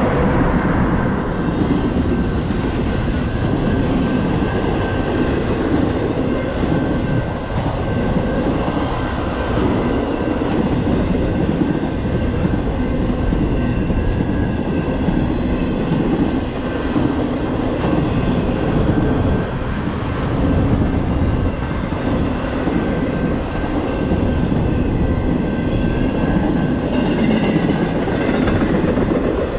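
Double-stack intermodal freight train passing, its cars rolling steadily over the rails, with a faint high steady tone over the noise.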